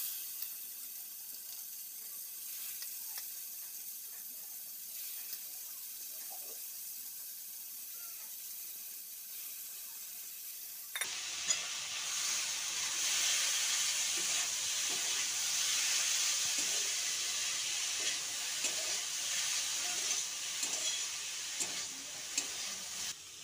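Shredded spiny gourd sizzling as it fries in oil in a kadai, stirred with a spatula that scrapes the pan now and then. The sizzle steps up abruptly about halfway through and stays louder.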